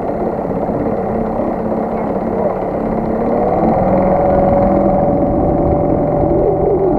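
HDX T 2.6 two-stroke outboard motor running during its break-in. About three seconds in, its pitch rises and it gets a little louder as it speeds up, then it holds steady.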